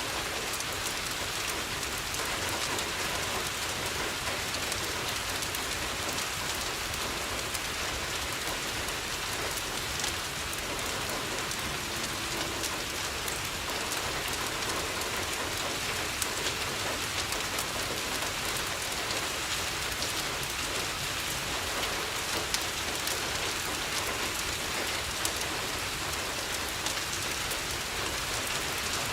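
Steady rain falling on a window, an even hiss, with a few sharp pops scattered through it from a crackling wood fire.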